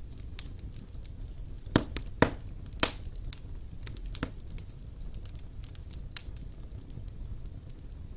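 Wood fire burning in a fireplace: a steady low rush of flame with irregular sharp crackles and pops from the logs, three loud snaps close together about two seconds in.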